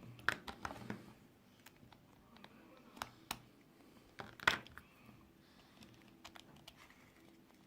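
Light, irregular clicks and taps of small metal tools (precision screwdriver and tweezers) working screws out of a smartphone's internal frame. Two clicks stand out, just after the start and about halfway through.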